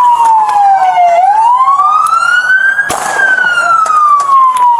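Police siren on its wail setting. The pitch falls for about a second, rises for nearly two seconds, then jumps back up and slowly falls again.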